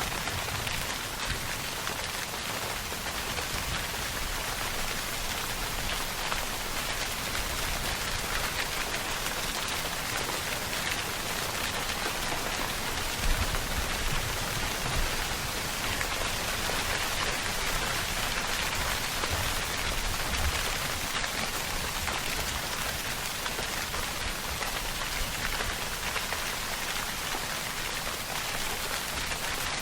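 Steady rainfall, drops pattering on a surface in an even hiss with a light low rumble now and then.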